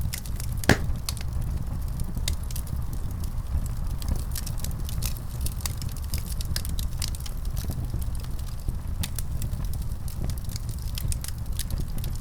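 Wood fire crackling in a fireplace: scattered sharp pops and snaps over a steady low rumble, with one louder pop under a second in.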